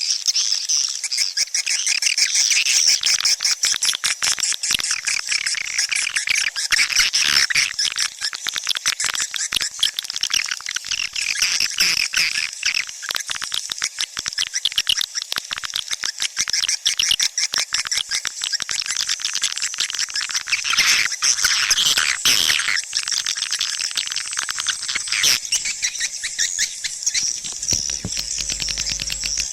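Swiftlet calls: a dense, unbroken twittering of rapid high chirps and clicks, the kind of swiftlet sound recording played to attract swiftlets into a bird house.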